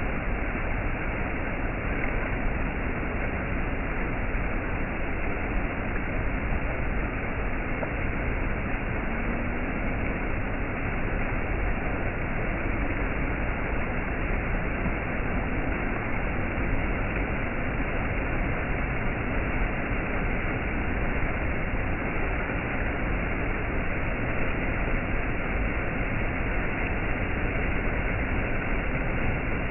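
Waterfall rushing steadily: an even, unbroken wash of falling water with no change in level.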